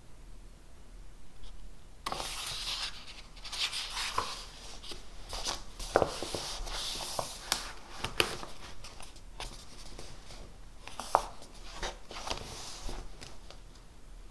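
Handwriting on paper: scratchy strokes start about two seconds in and come in short runs, with a few sharper taps.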